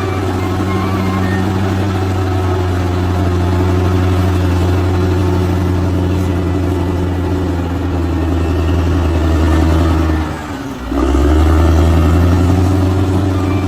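Large bulldozer's diesel engine running steadily with a deep, even hum. About ten seconds in, the sound drops away for a moment, then picks back up.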